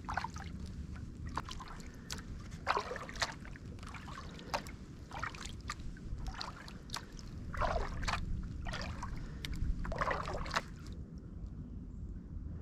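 Kayak paddle blades dipping and pulling through the water in a steady rhythm, about two splashy strokes a second, stopping near the end as the kayak glides.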